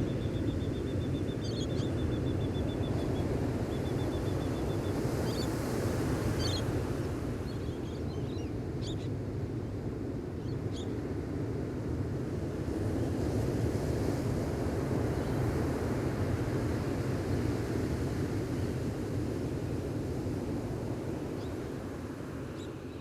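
Gentle ocean waves washing onto a beach, a steady surf that swells and eases. A bird gives a rapid high trill through the first few seconds, then a few short chirps.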